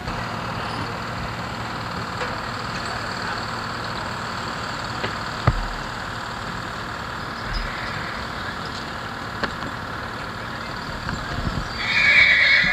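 Steady outdoor background noise with a single sharp click about halfway through, then a horse begins a loud whinny near the end.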